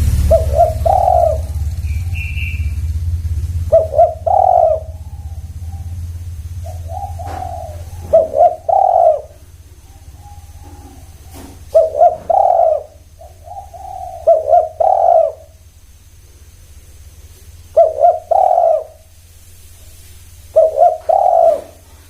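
Spotted doves cooing: a short phrase of a few coos repeated about every three to four seconds. A low rumble underneath fades out about eight seconds in.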